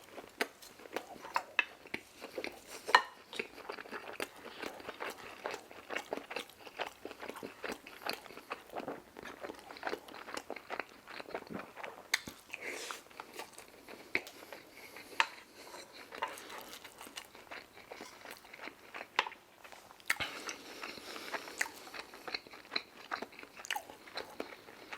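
Close-miked eating of Chinese takeout food: steady chewing with many irregular crunchy clicks and wet smacks, some much louder than others.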